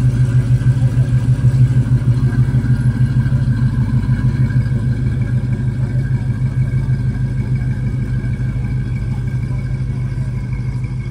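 Classic first-generation Ford Mustang coupe's engine running with a steady low pulsing as the car pulls away slowly over a dirt track. The engine note eases off a little over the last few seconds as the car moves away.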